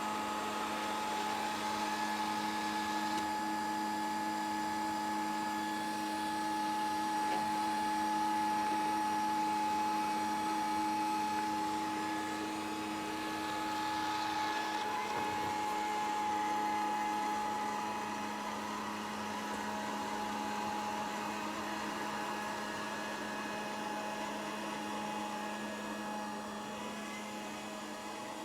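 Grundig VCR 2131 robot vacuum cleaner running, a steady motor whine and hum over the hiss of its suction, its loudness rising and falling a little.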